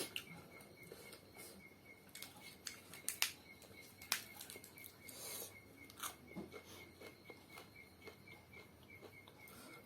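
Eating sounds of a mukbang: scattered sharp clicks and taps of chewing and utensils, the loudest a little after three seconds and about four seconds in.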